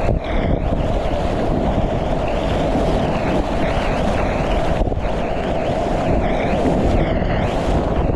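Loud, steady rush of whitewater around a kayak running a river, with wind buffeting the microphone.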